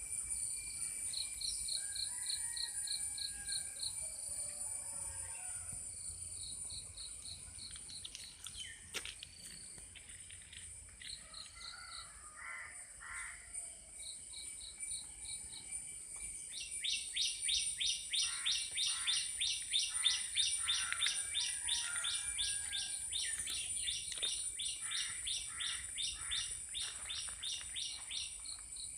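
Birds calling over a steady high insect drone. About halfway through, a louder bird starts a quick, even series of sharp calls, about three a second.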